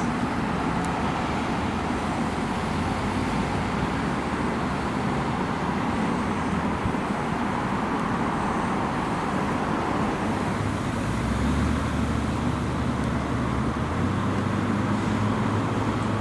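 Road traffic noise: a steady rush of passing vehicles, with a vehicle engine's low hum growing louder about eleven seconds in.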